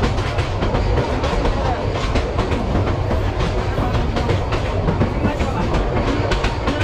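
Running noise inside a moving PT INKA-built passenger coach: a steady rumble of the wheels on the track with many quick clicks and rattles throughout.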